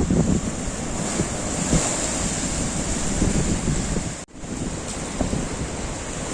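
Rough storm sea surging and washing against the harbour, with strong wind buffeting the microphone. The sound cuts out for an instant about four seconds in.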